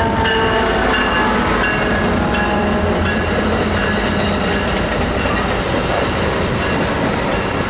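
Amtrak Pacific Surfliner passenger train running past at close range: a loud, steady rumble of engine and rolling wheels on the rails, with a few faint high-pitched tones in the first couple of seconds.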